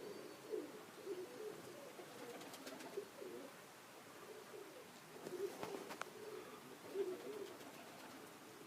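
Pigeons cooing over and over, low warbling coos, with a couple of faint sharp clicks about six seconds in.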